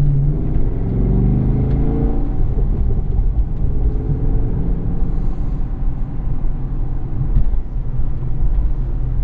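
2017 Chevrolet SS's 6.2-litre V8 running at moderate revs, heard from inside the cabin; its note holds briefly, then eases about two seconds in into a steady low rumble.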